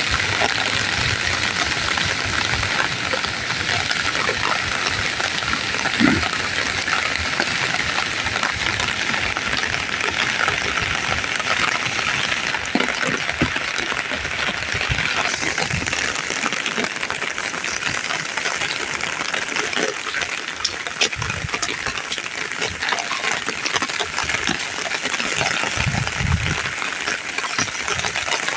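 Heavy rain falling: a steady hiss with scattered patter and drips, and a brief thump about six seconds in.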